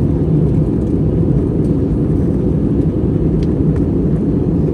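Steady low roar of an Airbus A321-200 in flight, heard inside the passenger cabin: the IAE V2500 turbofans and the airflow over the fuselage, with a few faint ticks above it.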